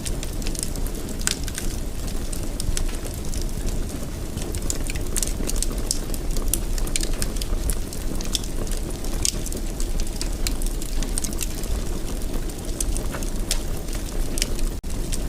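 Fireplace fire crackling, with frequent sharp irregular pops over a steady low rumble.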